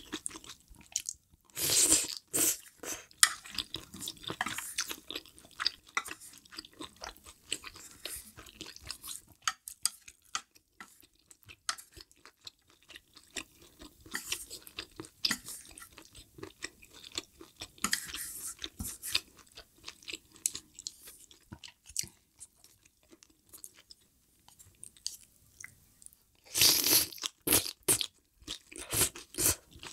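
Close-miked eating of spicy malatang hot pot: irregular wet chewing and crunching. Louder bursts come about two seconds in and near the end as spoonfuls go into the mouth.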